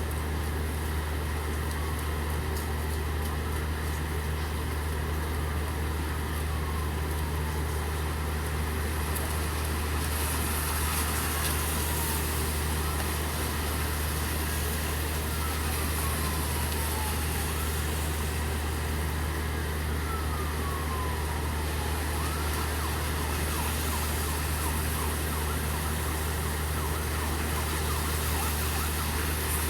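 Steady rain with a low, constant engine hum underneath, and a distant emergency siren wailing faintly in repeated falling sweeps through the first two-thirds.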